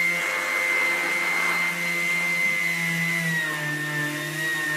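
A small electric motor running steadily with a high whine over a hiss, its pitch sagging slightly a little past the middle.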